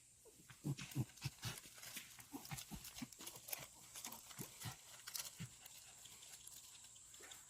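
A dog making a quick series of short, low, falling grunts and snuffles for the first few seconds, then quieter.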